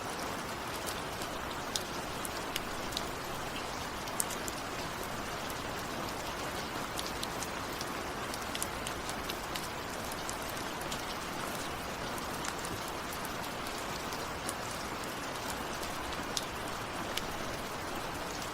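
Steady rain falling, with a constant hiss and scattered close drops ticking on a surface.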